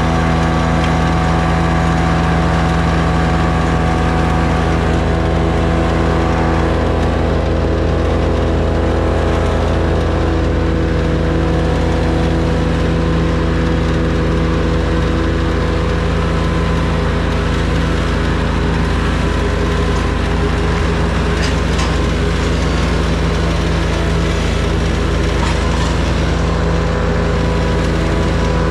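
An engine running steadily at a constant speed, with no revving up or down.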